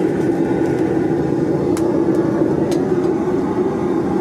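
Forge running with a steady, loud rushing noise, with a couple of faint clicks in the middle.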